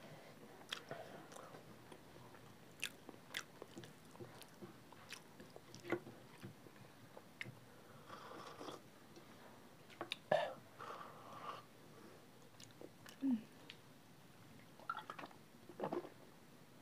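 Quiet close-miked eating: chewing and lip smacks as rice, dal and egg curry are eaten by hand, with scattered soft clicks. About halfway through there is swallowing as water is drunk from a steel cup.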